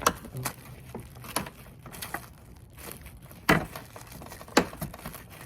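Sharp clicks and knocks of plastic car bumper parts and trim clips being handled and pushed into place, with four louder knocks spread through.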